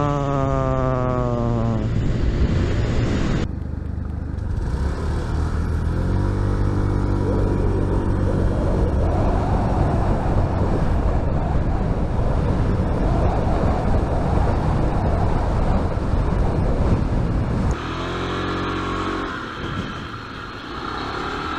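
2021 Honda PCX 125 scooter's single-cylinder engine accelerating hard, its note rising steeply in the first two seconds, then running on under load with wind rush building. About eighteen seconds in the throttle closes and the engine note drops as the scooter slows.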